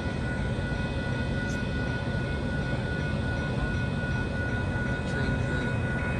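Metra diesel commuter train rumbling steadily, with a steady high whine held over the rumble.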